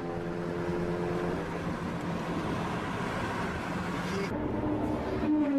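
Car engine running hard at high revs during a race, with wind and road noise. Its steady note breaks off about a second in, and a new engine note comes in near the end.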